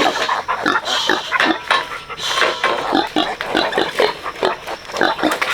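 Pigs calling: a busy run of short, overlapping squeals and grunts, one after another.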